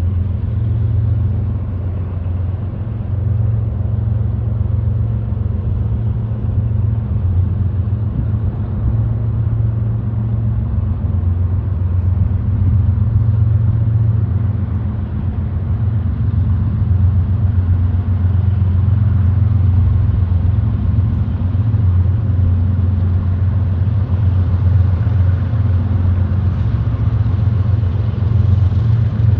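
Diesel freight locomotives running under load as they haul an intermodal container train: a loud, steady, low engine drone. A hissing noise grows stronger near the end.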